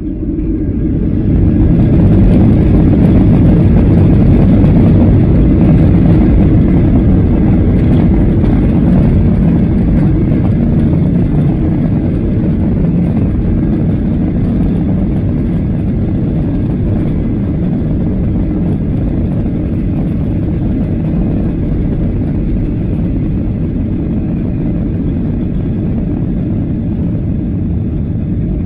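Boeing 737-800's CFM56 jet engines spooling up to takeoff thrust, heard inside the cabin as a heavy rumble that swells sharply in the first two seconds. The takeoff roll then runs loud and steady, easing a little over the second half.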